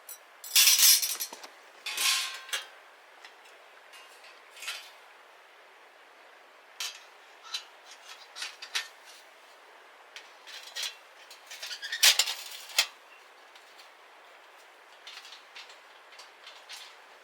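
Intermittent clinks and clatters of metal camping cookware or utensils being handled, with the loudest clusters about half a second in and again around twelve seconds in.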